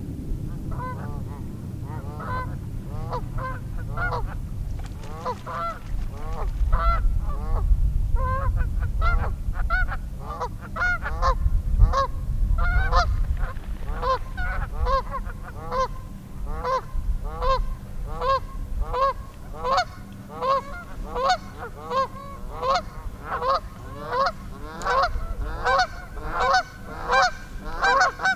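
A flock of geese honking over and over, about two honks a second and getting denser toward the end. A low rumble runs under the first half.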